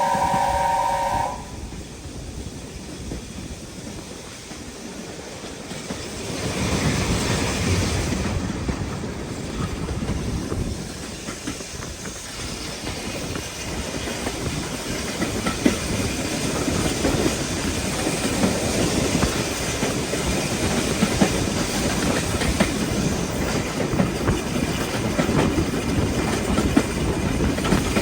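A steam whistle blowing a steady chord cuts off about a second in. Then a steam train runs: rumble and hiss build after a few seconds, and wheels click over the rail joints.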